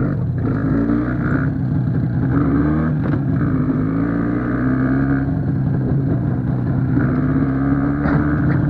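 IZh Jupiter motorcycle's two-stroke twin-cylinder engine running under way, its pitch rising and falling with the throttle.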